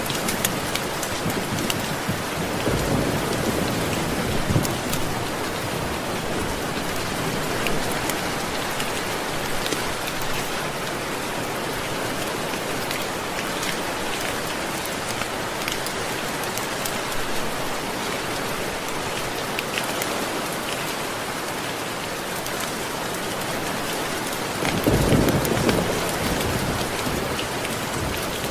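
Steady heavy rain falling on a surface, with thunder rumbling low twice: once a few seconds in and louder near the end.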